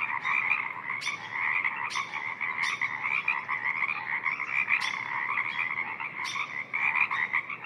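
A spring frog chorus: many frogs calling at once in a dense, continuous pulsing chorus, with louder individual calls standing out about once a second.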